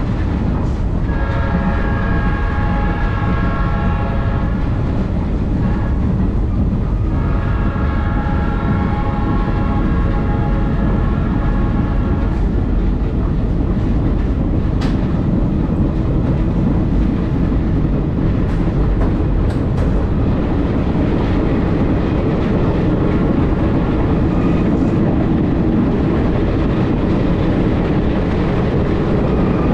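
Passenger train car rolling along the track, a steady rumble heard from aboard the moving train. The locomotive's horn ahead sounds two long blasts of about five seconds each in the first twelve seconds.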